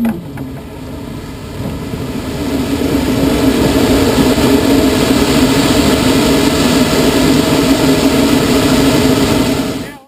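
Rushing airflow around a glider's cockpit with a steady low hum. It grows louder over the first few seconds as the glider picks up speed, holds steady, and cuts off abruptly near the end.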